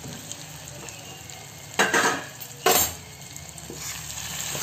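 Diced potatoes with spices sizzling quietly in a kadai while being stirred with a metal slotted spoon, with two sharp metal clanks about two and three seconds in. The sizzle grows louder near the end.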